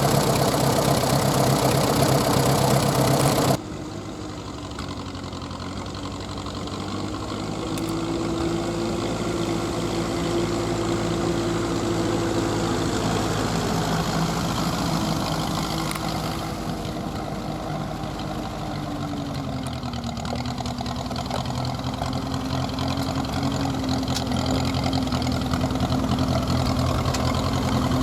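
1953 Ferguson TED-20 tractor's four-cylinder engine running steadily, its pitch rising and falling slightly. The engine is worn: the owner says the liners need replacing and it burns oil. The sound drops abruptly in level about three and a half seconds in.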